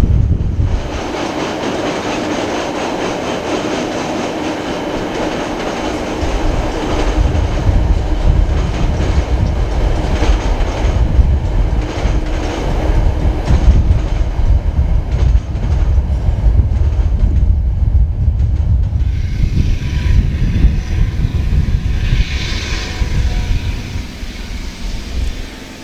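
KiwiRail freight train passing close by, a heavy rumble with wagon wheels clicking in a steady rhythm over the rail joints. The rumble eases and grows quieter near the end.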